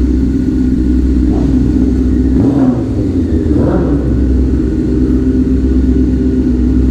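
Honda CBR600F4i inline-four motorcycle engine running steadily at a constant pitch.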